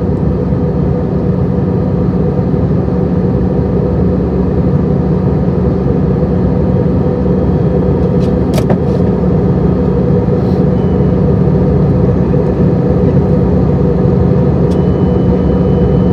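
Steady in-cabin noise of an Airbus A320 in flight during descent: the engines and rushing airflow make a continuous rumble with a steady hum in it, slowly growing a little louder. A single sharp click sounds about halfway through.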